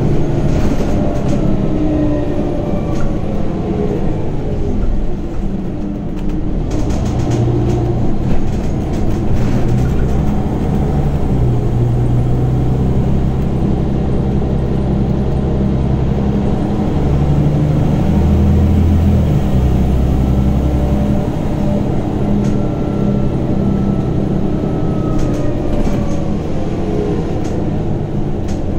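Scania Omnicity city bus heard from inside: its diesel engine runs under load while the ZF Ecomat automatic gearbox whines, rising and falling in pitch as the bus slows and speeds up, with short rattles and clicks from the body.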